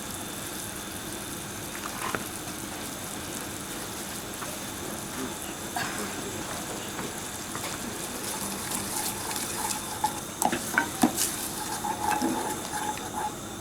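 Sauce in a pan on the hob sizzling and bubbling as it comes to the boil, with a few light clicks of utensils against pans in the second half.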